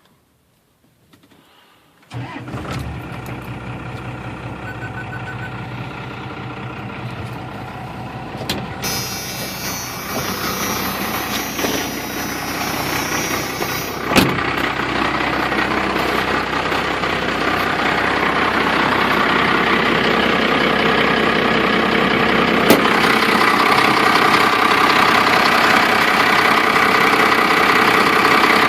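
1993 Dodge Ram's 5.9-litre 12-valve Cummins inline-six turbo diesel starting from cold: it fires about two seconds in and settles into a steady diesel idle that grows gradually louder. A high hiss rises for several seconds in the middle and ends in a sharp click.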